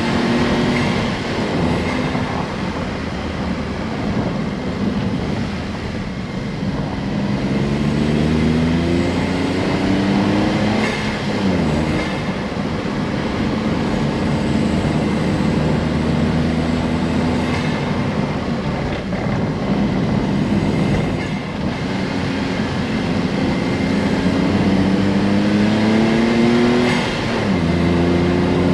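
Honda S660's 658 cc turbocharged three-cylinder engine pulling under acceleration, its note climbing through each gear and dropping back at the gear changes, several times.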